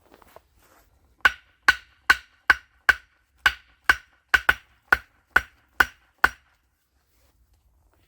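About a dozen sharp strikes of a hand tool on wood, two or three a second, each with the same brief ringing tone; they stop about two seconds before the end.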